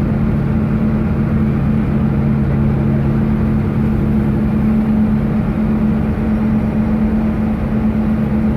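A vehicle engine running steadily: a constant low hum with a strong steady drone and rumble underneath, at an even level throughout.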